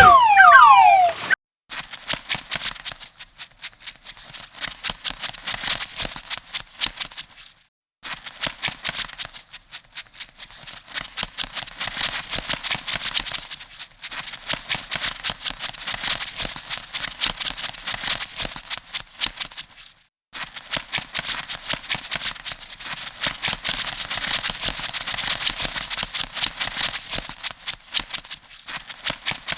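Crab sound effect: rapid clicking and rattling in runs of several seconds, broken by brief gaps. In the first second or so, a series of falling whistled tones plays and cuts off.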